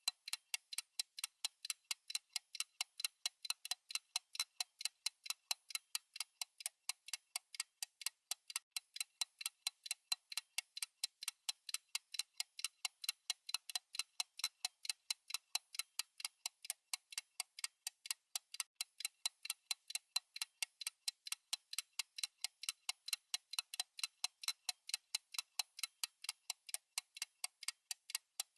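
Fast clock tick-tock sound effect of a countdown timer: an even run of sharp, rapid ticks, several a second, alternating louder and softer.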